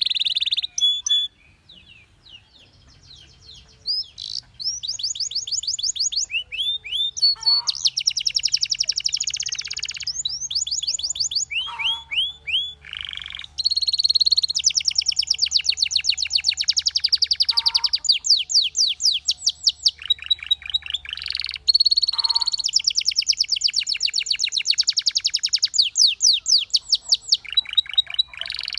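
Domestic canary singing: long rolls of very fast repeated high notes, changing from one trill to the next, with a short pause about two seconds in.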